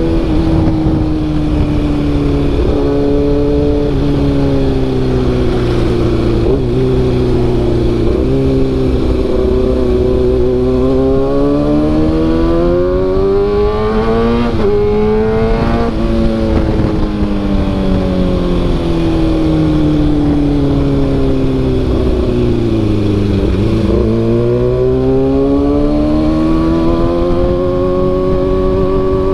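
Kawasaki ZX-6R inline-four running through an SC Project CRT carbon silencer while being ridden. The engine note drops in quick steps several times in the first eight seconds as it shifts up, climbs to a peak a little past the middle, falls away slowly, then rises again near the end.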